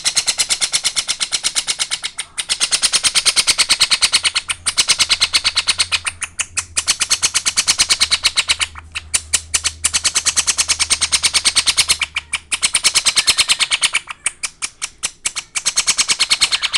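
A Princess of Wales parrot chick giving its rapid, pulsing food-begging call, about ten pulses a second, in bouts of a couple of seconds with short breaks, while being hand-fed formula from a syringe. The begging says it is still hungry and not yet full.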